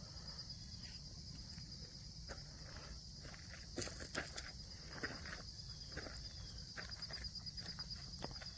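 Steady high insect chorus, a finely pulsing trill, with scattered light footsteps and crunches and a low wind rumble on the microphone.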